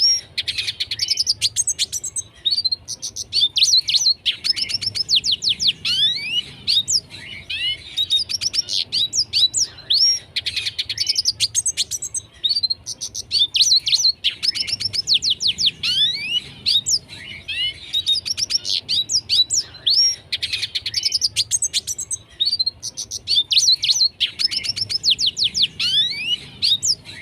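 Red siskin in full, non-stop song: a fast twittering run of rapid chirps and steep downward-sweeping whistles, in phrases a few seconds long with short breaks between them.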